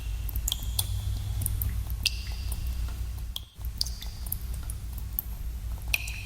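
Water drops falling in a cave, irregular plinks a few times a second, some ringing briefly at a clear pitch, over a steady low rumble that drops out for a moment about halfway.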